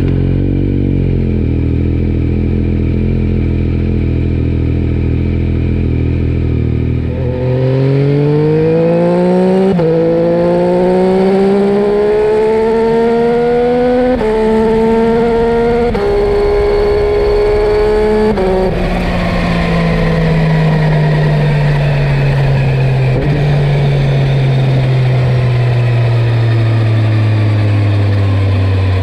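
Yamaha Tracer 9's three-cylinder engine through a carbon Akrapovič exhaust, idling steadily after a start, then pulling away about seven seconds in, climbing in pitch through three gear changes. From about two-thirds of the way through, the pitch falls steadily as it slows.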